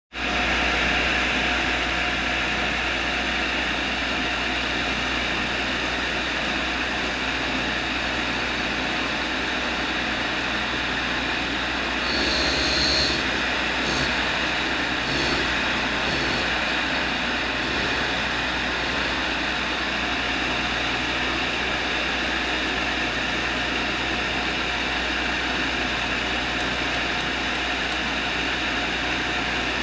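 A machine running steadily, with a brief louder patch of high hiss and a few clicks about twelve to sixteen seconds in.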